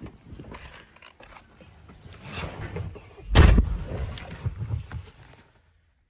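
Rustling and handling noise, with a single heavy thump about halfway through.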